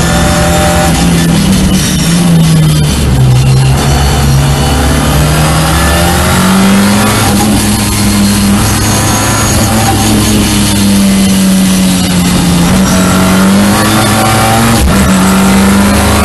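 Ford Escort RS Cosworth's turbocharged four-cylinder engine at full effort on track, heard from inside the car: its note climbs under acceleration and drops sharply at each gear change, a few times over.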